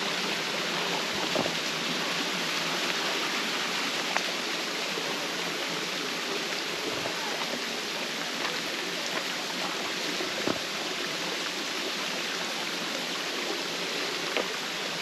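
Steady, even rush of shallow water flowing over rocks in a small stream, with a few faint knocks.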